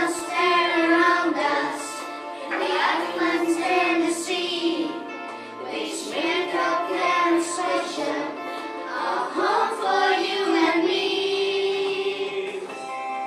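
A children's song: young voices singing together over a musical backing.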